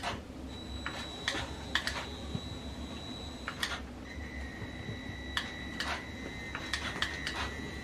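Scattered light clicks and taps of a small plastic 1/16-scale RC truck being handled and turned over, about one or two a second, over a faint steady high whine.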